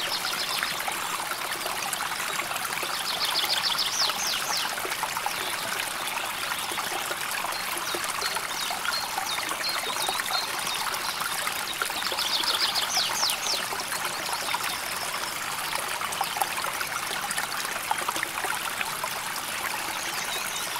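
River water flowing with a steady trickling rush. A small bird gives a rapid high trill twice, about three seconds in and again about twelve seconds in, with a few fainter high notes between.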